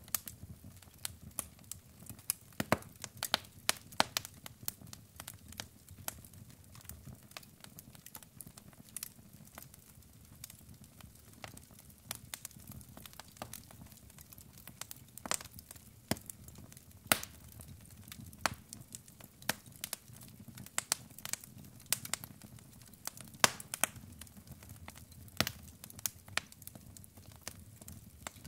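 Wood fire burning in a fireplace: logs crackling with irregular sharp pops and snaps over a low rumble of flames.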